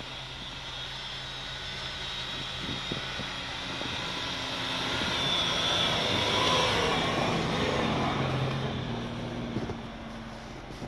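A 4x4 off-road vehicle's engine running under load, its drone growing louder to a peak about midway and then fading away.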